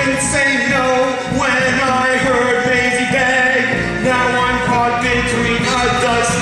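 A musical theatre song: a singer holding sung lines over instrumental accompaniment.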